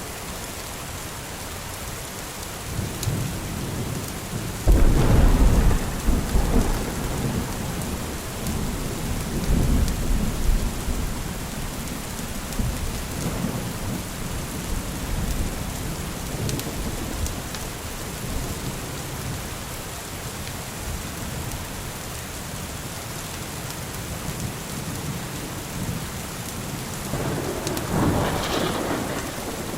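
Steady rain falling, with rolls of thunder. A sudden loud clap about five seconds in rumbles away over several seconds, and another rumble swells near the end.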